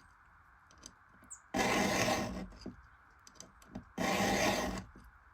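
Round file pushed by hand through a chainsaw ripping-chain cutter tooth with light pressure, sharpening it: two strokes of about a second each, with faint small ticks between them.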